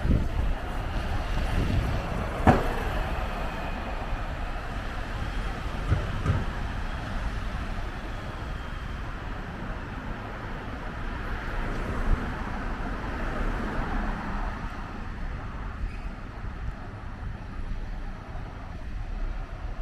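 Scania N320UB city bus running in street traffic, its engine and road noise steady, with one sharp knock about two and a half seconds in.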